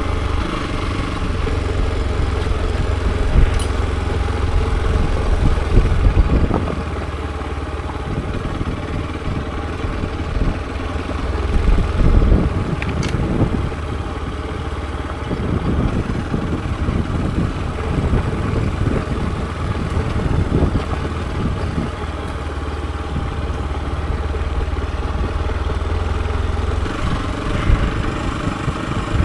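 Hero XPulse 200 4V's single-cylinder four-stroke engine running steadily, with its level rising and falling a little.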